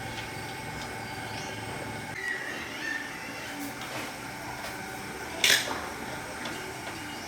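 Steady background hum with a few light clinks, and one short, sharp clatter about five and a half seconds in.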